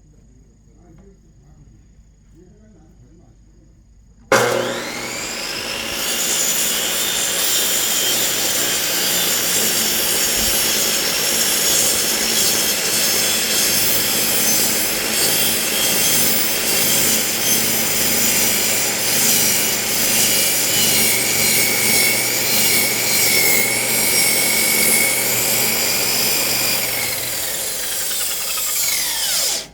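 Electric high-speed cut-off saw (chop saw) starting up about four seconds in and cutting into a thick firewood log for some 25 seconds, then switched off and spinning down near the end.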